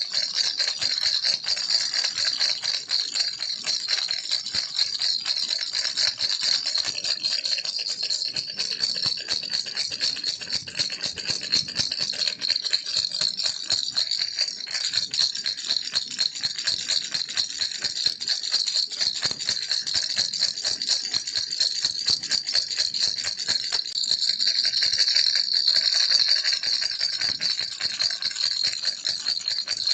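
Baby rattle (a "kiliki" rattle) shaken continuously: a fast, steady stream of bright, high-pitched rattling clicks.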